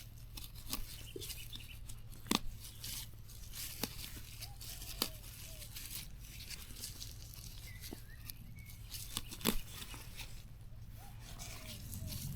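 Plants being pulled and torn by hand, with a few sharp snaps of breaking stems.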